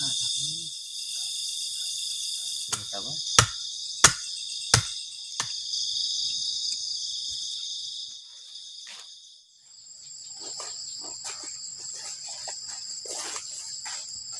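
Steady high-pitched chorus of forest insects, crickets or cicadas, which gives way to a thinner, higher drone about ten seconds in. Five sharp knocks sound between about three and five and a half seconds in.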